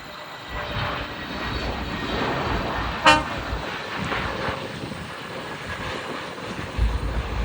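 Airbus A320 on approach: steady jet engine and airflow noise. About three seconds in there is a brief sharp pitched toot, and low rumbling surges come near the end.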